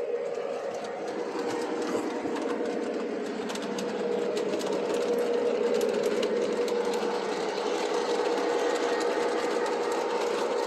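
Model electric train running on the layout track: a steady motor hum with rapid clicking of wheels over the track joints, growing a little louder about four seconds in.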